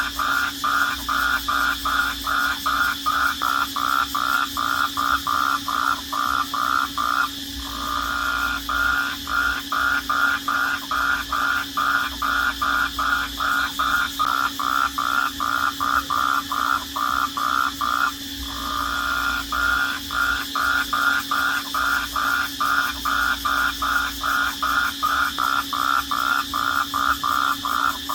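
Nighttime chorus of calling animals: a steady rhythmic chirp, about three pulses a second, that twice runs together into a continuous trill for about a second, over a steady background hum of other callers.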